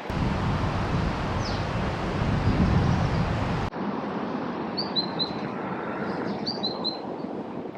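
Wind buffeting the microphone with a low rumble, cutting off abruptly about halfway through. Then small birds chirp in short high notes, two quick groups of three or four, over a steady outdoor hiss.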